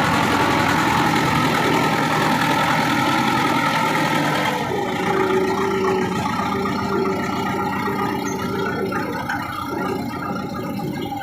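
HMT 5911 tractor's diesel engine running steadily, its note changing about four and a half seconds in and fading slightly toward the end.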